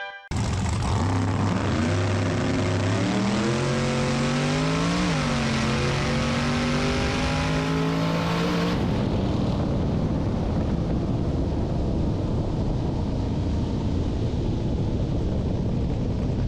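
Nitrous drag-racing pickup truck engine at full throttle on a pass, its pitch climbing and then dipping once about five seconds in before holding a steady high drone. The drone cuts off abruptly near nine seconds and gives way to a loud, even rushing noise.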